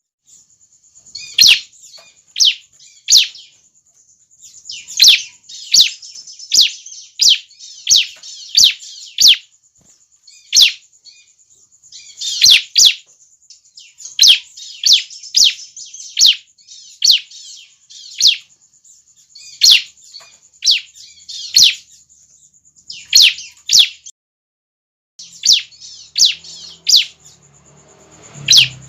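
Bar-winged prinia (ciblek) calls, the cries of young birds: sharp, high chirps that sweep down in pitch, repeated about once a second over a steady high trill. The sound breaks off briefly about three quarters of the way through.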